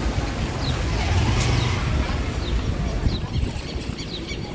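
Motorcycle engine running while riding, with road and wind noise, louder about a second in. A few short high chirps sound over it.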